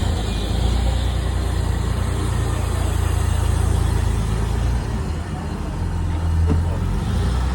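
A vehicle engine running with a deep, steady low rumble that eases off briefly about five seconds in, over general street noise.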